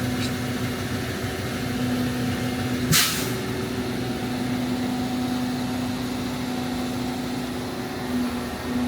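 Heavy diesel machine's engine running at a steady idle, with one short, sharp hiss of released air about three seconds in.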